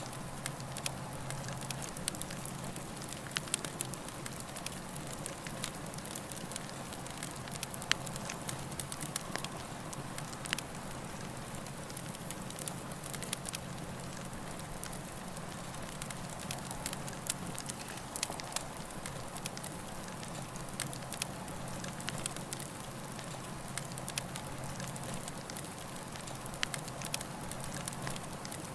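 Campfire burning, its wood crackling and popping in irregular sharp snaps over a steady hiss of flame.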